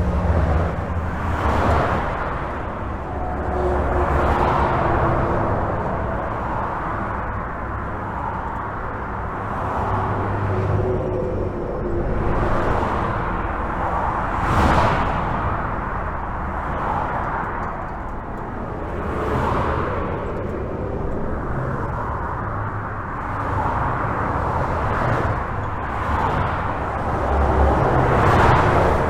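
Highway traffic heard from under a bridge: a continuous rumble of tyres and engines, with individual vehicles swelling past every few seconds. The sharpest pass comes about fifteen seconds in.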